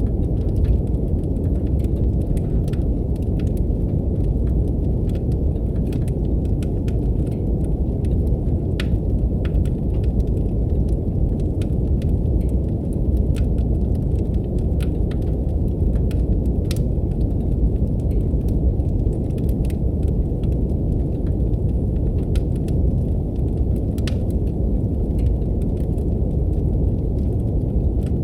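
Steady brown noise, a deep even hiss, mixed with the irregular crackle and pops of a wood fire burning in a fireplace.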